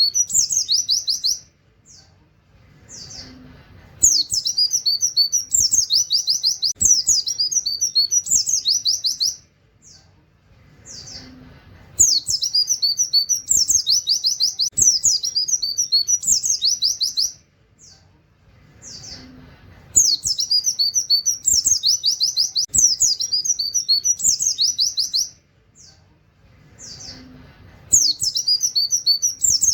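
White-eye (pleci) singing fast, high trilled bursts of 'wit wit' canary-style song, each burst about five seconds long, repeating about every eight seconds after a short pause.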